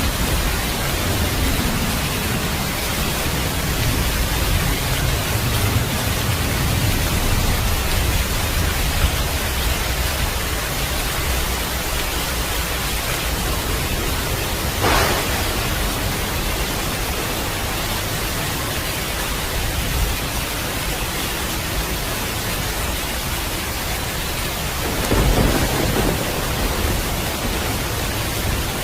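Steady heavy rain with thunder: a low rumble fading over the first few seconds, a sharp crack about halfway through, and another rolling rumble near the end.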